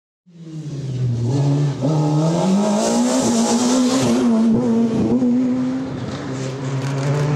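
Rally car engine under hard acceleration, fading in at the start; its note climbs about two seconds in, holds high, then drops back a little after six seconds.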